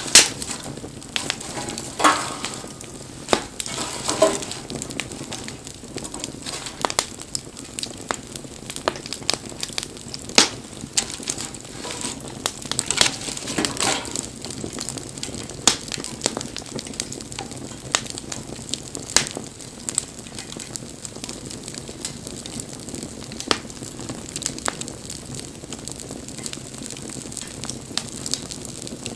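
Wood campfire crackling: irregular sharp pops and snaps of burning wood over a low steady hiss of flame, with a couple of brief hisses in the first few seconds.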